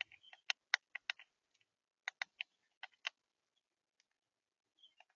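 Sharp, irregular clicks and taps close to the feeder camera, about a dozen, bunched in the first three seconds: birds pecking and cracking seed at the feeder.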